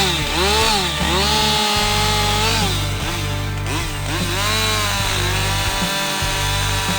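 Two-stroke chainsaw running at high revs, its pitch dipping and recovering again and again, holding steady for about a second and a half after the first second, then dipping several more times.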